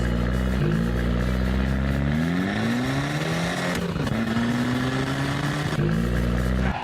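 Cartoon monster truck engine sound effect revving: the pitch climbs repeatedly about once a second, then rises in one longer sweep, drops briefly near the middle, and settles into a steady higher run.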